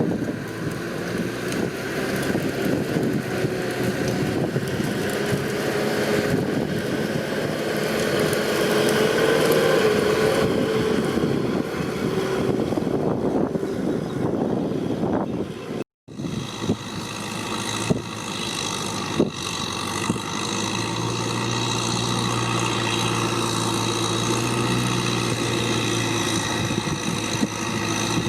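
Tractor engine running steadily. The sound cuts out abruptly about halfway through, then the engine hum resumes, lower and even.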